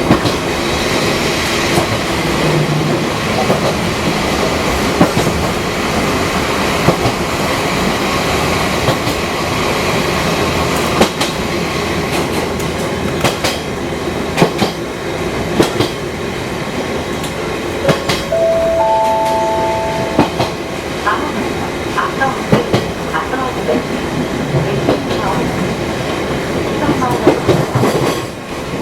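Fukui Railway 200-series train running, heard from on board, with steady running noise and repeated clicks and knocks of the wheels over rail joints. A short steady two-pitch tone sounds about two-thirds of the way through.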